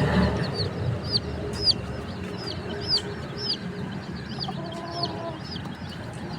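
Baby chicks peeping: many short, high chirps, a couple a second, thinning out near the end, over a low background rumble.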